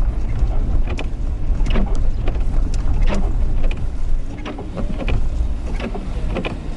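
Steady low rumble of a car driving on snowy roads, heard from inside the cabin, with scattered sharp clicks and knocks.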